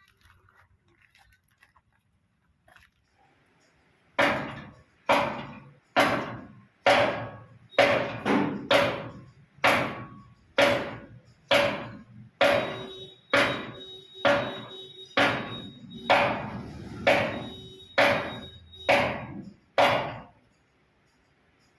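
A regular run of about eighteen sharp knocks, roughly one a second, each ringing out briefly. From about halfway a steady ringing tone sounds along with the later knocks.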